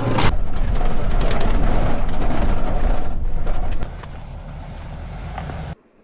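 A vehicle running, loud with a low rumble and rushing noise. It drops quieter a little under four seconds in and cuts off suddenly near the end.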